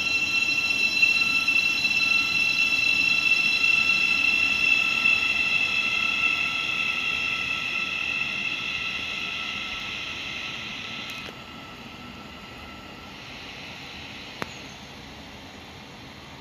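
Electric multiple-unit train drawing away, a steady high whine of several tones over a rumble, fading as it goes. The whine cuts off sharply about eleven seconds in, and there is a single sharp click near the end.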